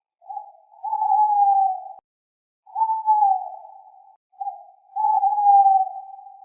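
Owl hooting: three long hoots that fall slightly in pitch, each led by a short note and fading out at its end.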